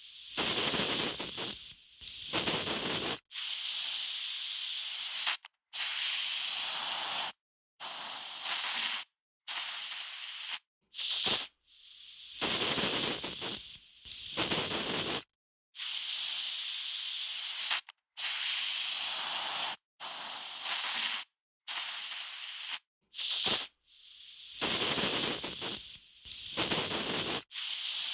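Aerosol spray can hissing in a string of separate sprays, about a dozen in all, each lasting one to three seconds and stopping sharply before the next.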